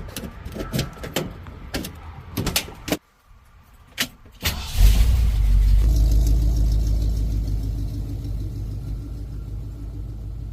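A few sharp clicks and knocks, then about four and a half seconds in a car engine starts and settles into a steady low idle that eases slightly as it runs.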